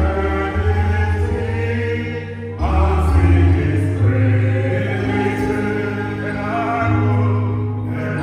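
Music: a slow worship song played on an electronic keyboard with choir-like voices, sustained chords over long-held bass notes that change every second or two.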